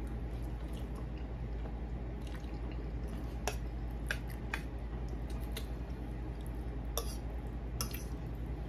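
A person chewing a mouthful of spaghetti and meatballs close to the microphone: scattered wet mouth clicks and smacks, the sharpest about three and a half and seven seconds in. A steady low hum lies under it all.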